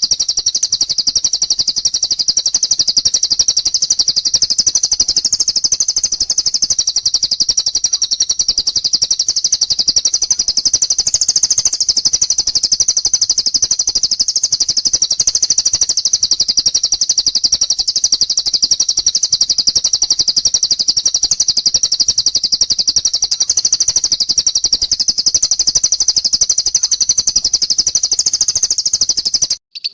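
A small cage songbird's high-pitched, rapid chattering trill, kept up without a break and looped as a training track for magpie-robins. It cuts out briefly just before the end.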